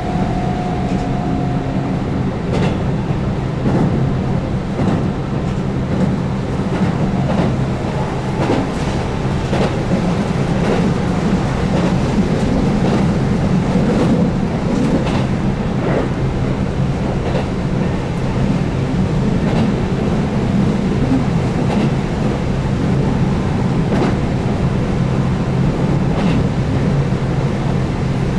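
Keihan 8000 series electric train running at speed, heard from inside the car: a steady drone of its DC traction motors, with the wheels clicking irregularly over rail joints.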